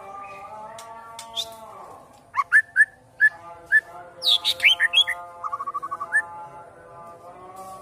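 A songbird calling in short, sharp whistled chirps from about two seconds in, with a quick trill of about eight notes around five and a half seconds in. Steady background music with sustained tones plays underneath.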